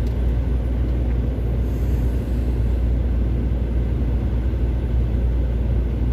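Steady low rumble of a semi-truck's engine and tyres while driving, heard from inside the cab.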